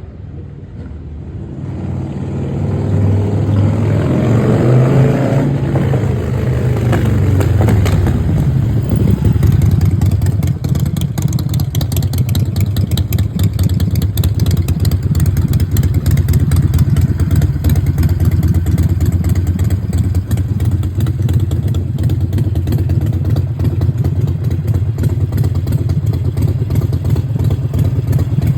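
Harley-Davidson Sportster's V-twin engine running, getting louder over the first few seconds with its pitch rising and falling, then settling into a steady idle with rapid pulses.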